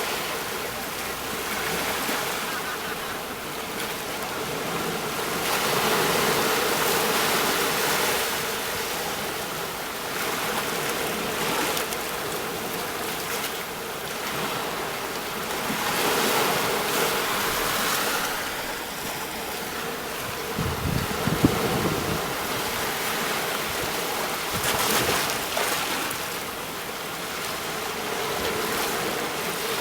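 Sea waves breaking on a shore, the wash swelling and falling back every few seconds. About two-thirds of the way through there is a brief low rumble.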